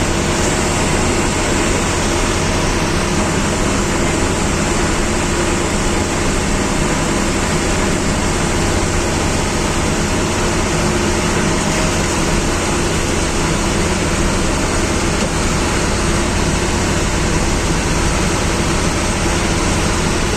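Government bus engine running steadily with road and cabin noise, heard from inside the driver's cabin: a constant low hum under an even rumble and rattle, without a break.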